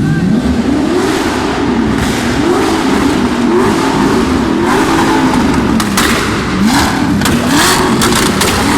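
Audi R8 engine through a straight-through exhaust, revved repeatedly in quick blips that rise and fall in pitch. From about six seconds in, sharp cracks and pops from the exhaust come with the revs, the sound of it spitting flames.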